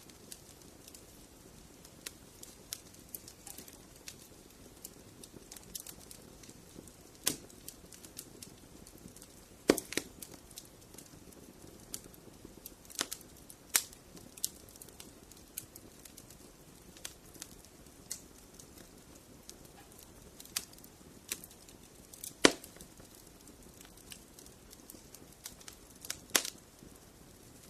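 Wood fire crackling in a fireplace: scattered sharp pops and snaps over a faint low rush of flame, with a few louder pops.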